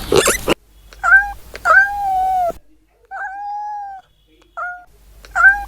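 Cat meowing five times, two of the meows long and drawn out, the others short.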